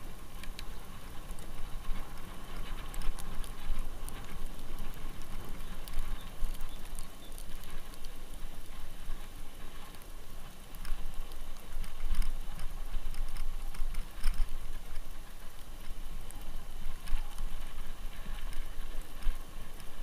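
Bicycle riding over snow: a steady crunching hiss from the tyres, with scattered clicks and rattles from the bike and a low rumble throughout.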